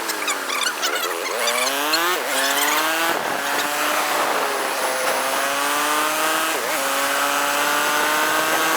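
Motor vehicle engine accelerating through the gears: its pitch climbs and drops sharply at two gear changes, then sags and climbs slowly again.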